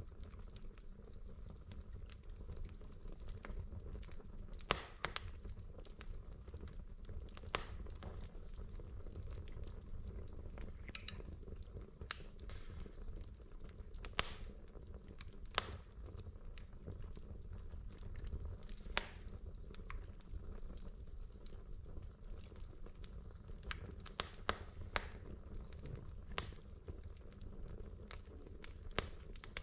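Wood logs burning in a fireplace: a steady low rumble of the flames with irregular sharp crackles and pops, a few louder pops standing out.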